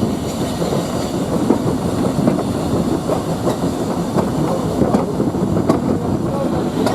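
A train running along the track: a steady rumble with irregular clicks and knocks from the wheels on the rails.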